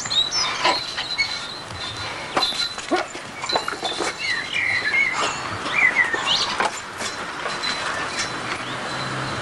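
Outdoor ambience with scattered bird chirps and frequent light clicks and taps over a steady background hiss.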